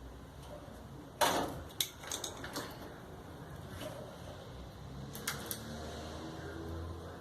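Knocks and clicks of parts being handled during clothes-dryer repair: one sharp knock about a second in, then a few lighter clicks, over a low steady hum.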